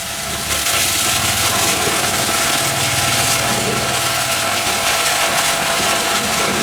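High-pressure washer running: a steady hiss of spray with a motor hum underneath.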